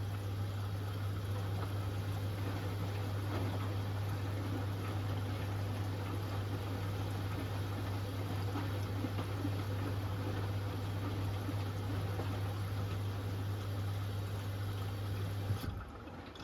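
Hoover Axi 10 kg washing machine moving water: a steady low hum with water gurgling and sloshing, which cuts off suddenly near the end.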